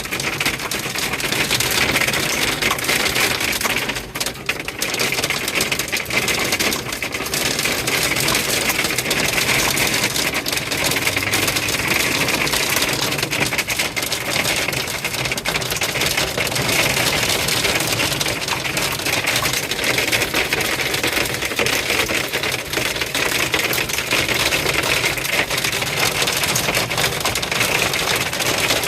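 Hailstones hitting a car's body and windows in a dense, fast, unbroken clatter, heavy and steady throughout.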